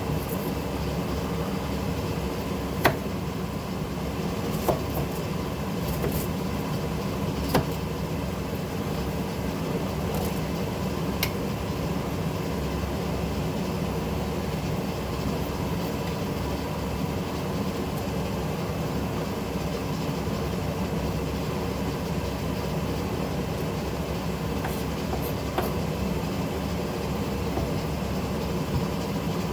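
Steady kitchen rumble and hum while a stew is being cooked, with a few short sharp clicks, the loudest about three seconds in.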